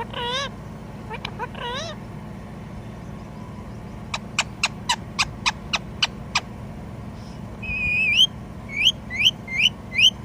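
Indian ringneck parakeet calling: a few short wavering calls in the first two seconds, then a quick run of about nine sharp chirps, then a string of rising whistled notes.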